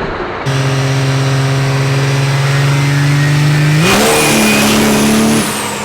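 Diesel race truck engine running at a steady speed, then revving up about four seconds in and holding higher with a rush of air and a high whistle, before dropping back near the end.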